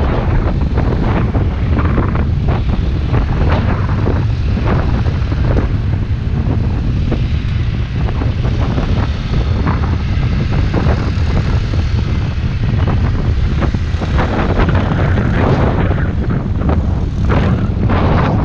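Wind buffeting the microphone over the steady drone of a motorbike's engine and tyres while riding, with irregular gusts throughout.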